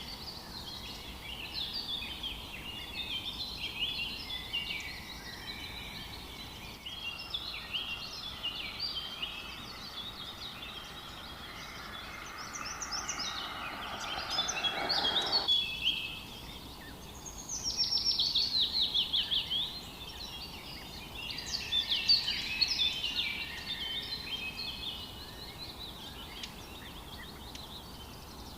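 Birdsong: several birds chirping and singing in quick overlapping phrases, with a loud run of rapid falling notes about two-thirds of the way through.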